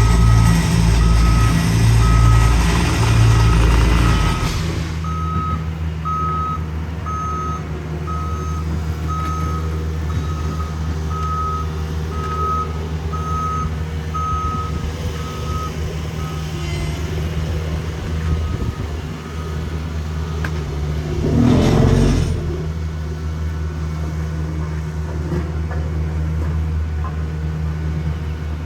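Heavy diesel paving equipment running with a steady low engine drone while a backup alarm beeps about once a second, fading out after about sixteen seconds. The engine drops from a loud low rumble to a quieter running note about four seconds in, and a brief loud whoosh comes near the end.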